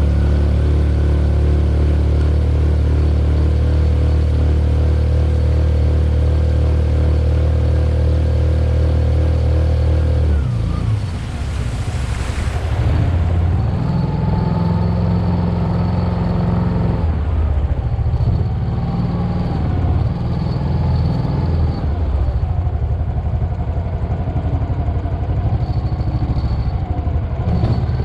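Mokai jet-propelled kayak's small engine running, steady for about the first ten seconds, then changing to a rougher note whose pitch rises and falls as the throttle varies.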